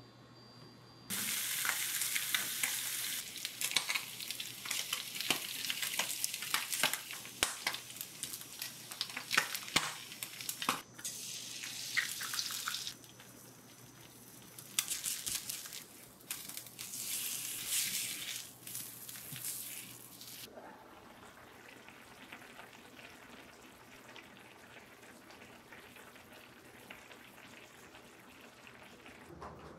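Food sizzling and crackling in a hot pan, starting suddenly about a second in. It drops out briefly near the middle, comes back, and dies down to a faint hiss about two-thirds of the way through.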